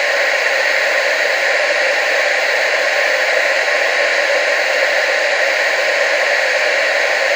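TV static: a steady, unchanging hiss, strongest in the upper-middle range, with almost no low end.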